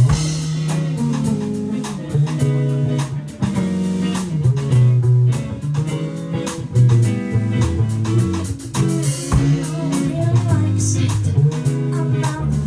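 A live band playing a song: guitar and bass guitar over a steady beat.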